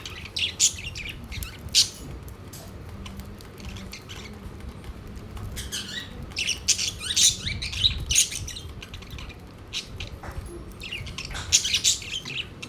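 Pet budgerigars chirping and squawking in many short, high, quick calls, in busy clusters near the start, around the middle and near the end with quieter stretches between.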